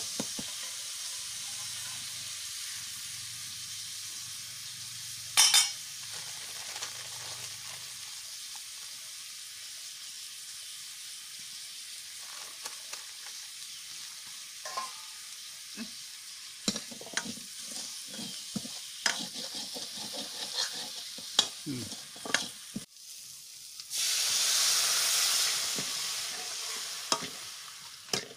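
Snails and hog plums frying in an iron kadai, sizzling steadily while a steel ladle stirs and scrapes against the pan with scattered clicks. A little over twenty seconds in, liquid poured into the hot pan sets off a much louder hiss that slowly dies down.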